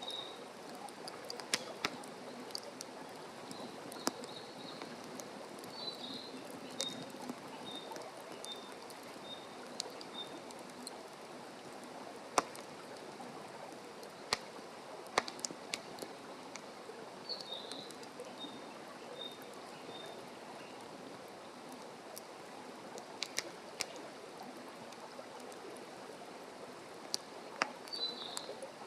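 Wood fire crackling steadily in a fire pit, with sharp pops here and there. A bird gives a faint run of short high calls a few times.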